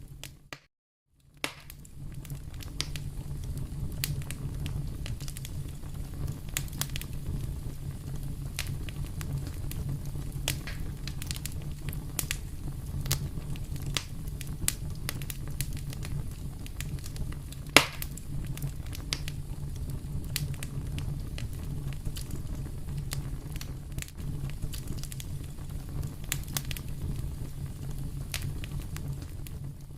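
Wood fire burning in a fireplace: a steady low rumble of flames with frequent sharp crackles and pops, one much louder pop about eighteen seconds in. The sound cuts out for about a second near the start.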